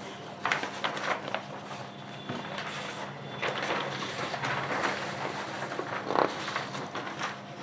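Objects being handled: irregular clicks, knocks and short rustles over a steady low electrical hum.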